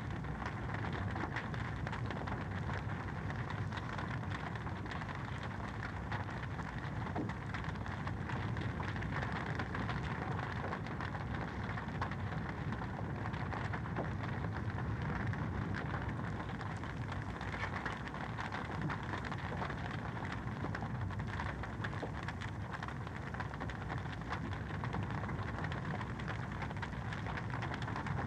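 Wood fire in a fireplace crackling, a steady run of small pops and ticks over a continuous low rush.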